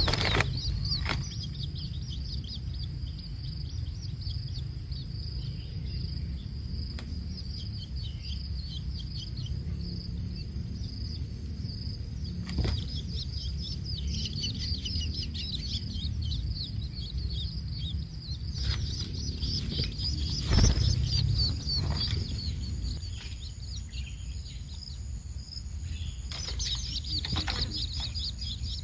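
Young long-tailed shrikes chirping in quick, high-pitched runs of short calls, over a steady low rumble, with a couple of sharp knocks, the loudest about two-thirds of the way through.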